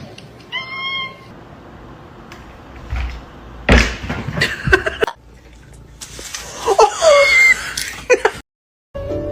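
A cat meowing: a short meow about half a second in and a longer, falling meow around seven seconds in, with a loud thud about four seconds in.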